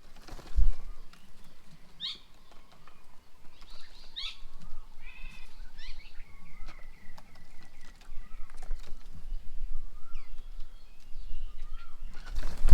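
Several wild birds calling and chirping, with short notes, a harsh stuttering call and one held whistle-like note. Two loud, dull thumps stand out, one just after the start and one near the end.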